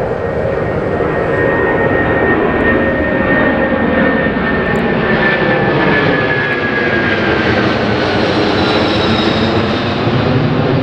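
Boeing 747-400's four Rolls-Royce RB211 turbofans at takeoff thrust: a loud, steady jet roar with a high whine that slowly falls in pitch as the aircraft passes.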